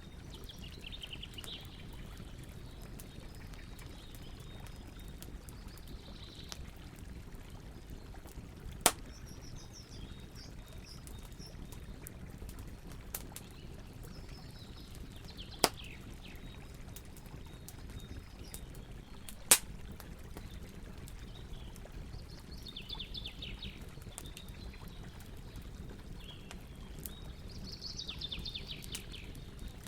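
Campfire burning with a steady low hiss and scattered crackling pops, three of them sharp and loud about 9, 15 and 19 seconds in, while birds sing short chirping phrases in the background.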